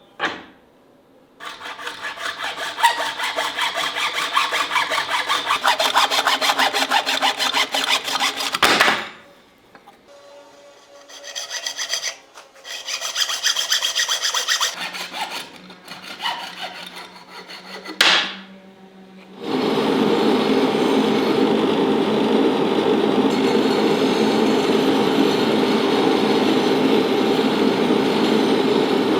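A hand tool working wood in quick, even strokes, like sawing or rasping, for several seconds, with a couple of sharp knocks. In the last third a steady machine sound starts, about 19 seconds in, and runs on without a break.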